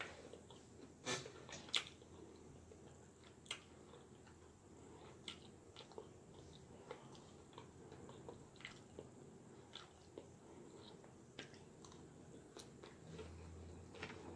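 Close-up chewing of a lettuce salad: soft, irregular crunches and wet mouth clicks, with two louder crunches a second or two in.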